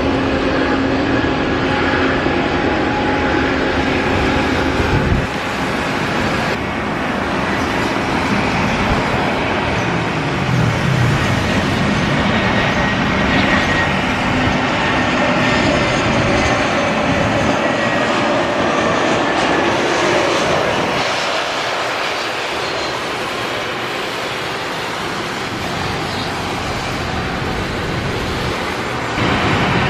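Jet airliner engines running loud: a dense, steady rush with a faint high whine, shifting abruptly a few times and easing a little in the second half.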